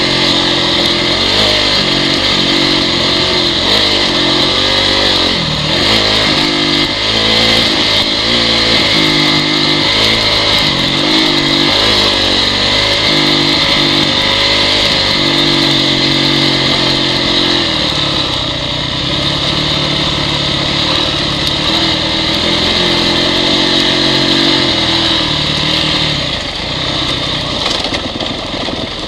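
Honda CRF four-stroke dirt bike engine being ridden, its pitch rising and falling again and again with the throttle, holding steadier in the second half.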